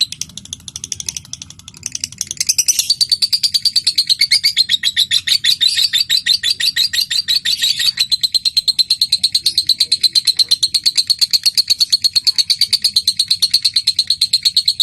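Lovebird chattering in a fast, even run of clicking notes, quiet and broken for the first couple of seconds, then loud and unbroken, and from about halfway through settling into a long, steady-pitched trill: the 'ngetik' chatter running on into 'ngekek'.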